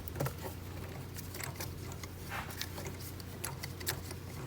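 Irregular light clicks and taps of hand tools and parts being handled in a car's engine bay, over a steady low hum.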